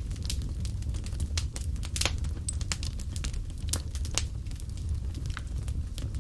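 A fire in a fireplace crackling: irregular sharp pops and snaps over a steady low rumble.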